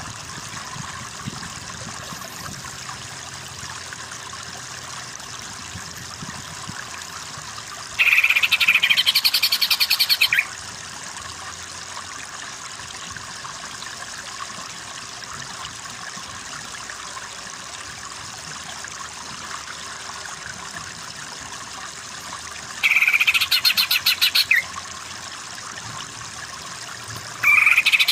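Greater green leafbird (cucak ijo) giving loud bursts of rapid chattering song, about 8 s in, about 23 s in, and again near the end, over a steady hiss.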